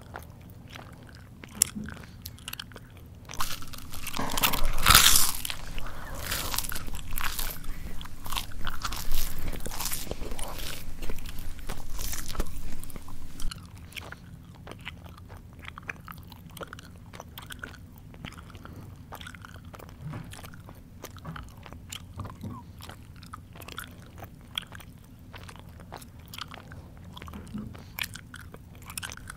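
A person chewing food close to the microphone: a louder stretch of crunching bites from about three and a half seconds in to about thirteen and a half seconds, then softer chewing with scattered small clicks.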